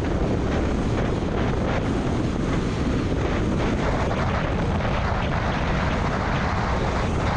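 A car driving through a severe thunderstorm: a steady, loud rush of wind, rain and road noise, with faint scattered ticks.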